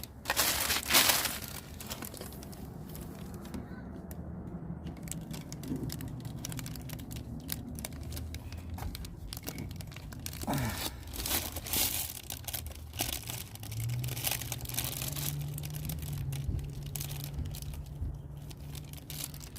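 Scattered clicks, scrapes and rubbing as an old rubber bushing in a Harley-Davidson rear shock mount is worked and pushed out by hand. The bushing is old and stuck in place. A low steady hum comes in about two-thirds of the way through.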